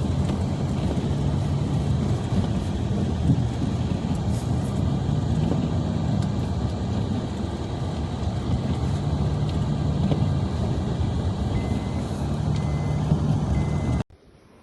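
A large motor vehicle's engine running steadily close by, with three short high beeps about a second apart near the end; the sound cuts off suddenly.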